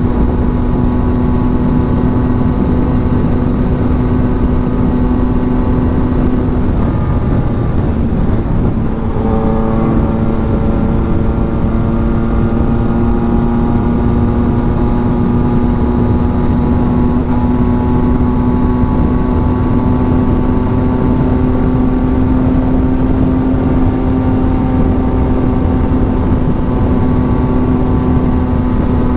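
Yamaha MT-09's three-cylinder engine running hard at high speed on a top-speed run, through an aftermarket exhaust, under heavy wind rush. A steady high note breaks off briefly about seven seconds in, then picks up again and slowly climbs.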